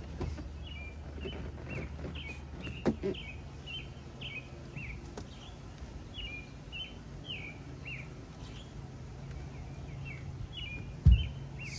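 A small bird chirping over and over, short falling chirps about two a second, over a steady low background hum. A light knock comes about three seconds in and a heavier thump near the end.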